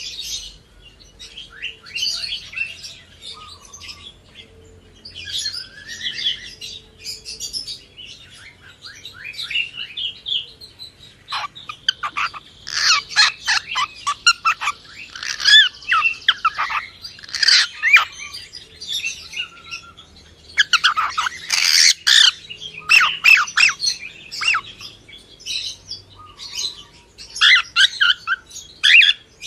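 Cockatiel chirping and squawking in quick runs of short, sharp calls, quieter at first and becoming a dense, loud burst of chatter about halfway through.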